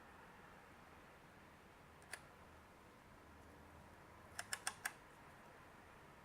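Small, sharp clicks: a single one, then four in quick succession about four and a half seconds in, over a quiet room.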